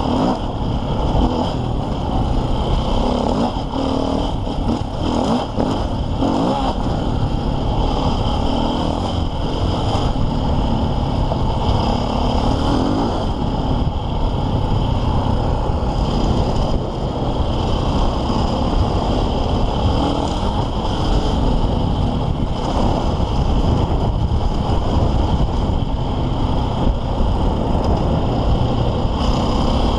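KTM 450 EXC enduro motorcycle's single-cylinder four-stroke engine running under constantly changing throttle while riding off-road trails, heard from an onboard camera, with scattered knocks from the rough ground.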